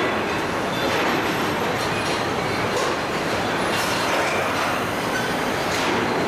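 Steady mechanical din of a car assembly line at work, a dense rumbling clatter with a few short, sharper noises standing out about four and six seconds in.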